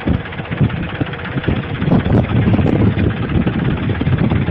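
A vehicle engine running.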